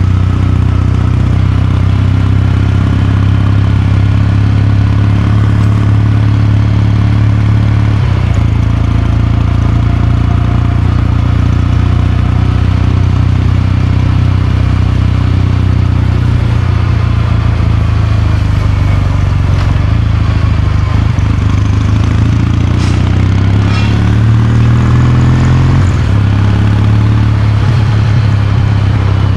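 Kawasaki Meguro K3's air-cooled parallel-twin engine running under way, its exhaust note steady at first. About two-thirds through it climbs in pitch under acceleration, then drops suddenly as if at a gear change near the end.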